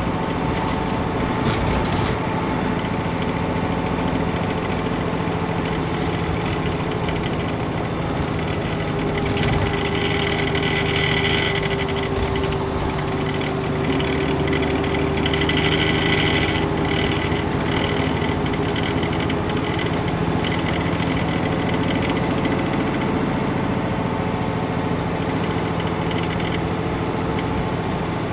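Nissan Diesel PF6HTA diesel engine of a Nissan Diesel UA city bus running at a steady speed, heard from inside the passenger cabin. A higher hiss rises twice, about ten and sixteen seconds in.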